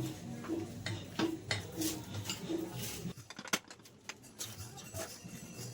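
Scattered metallic clicks and clinks of hand tools and engine parts being handled during motorcycle engine assembly. A soft low note repeats about every two-thirds of a second through the first half, and the clinks continue to the end.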